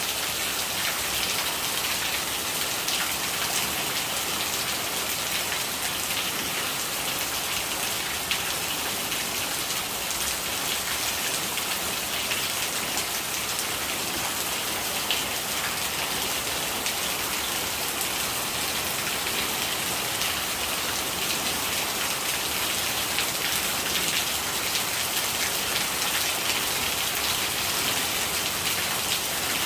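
Steady rain, a dense even hiss of countless small drops hitting a surface.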